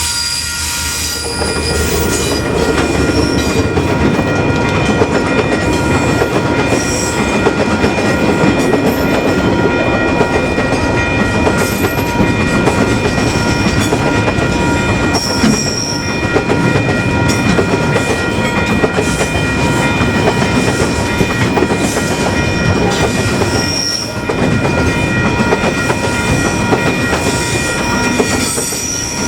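Level crossing's Western Cullen Hayes electronic bells ringing steadily while a train rolls over the crossing, its wheels clattering on the rail joints. The train noise comes in about a second in and keeps going.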